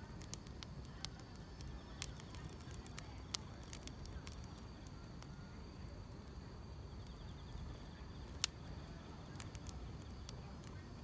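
Wood fire crackling with scattered sharp pops, one louder snap about eight seconds in, over steady chirring of grass insects and a low rumble.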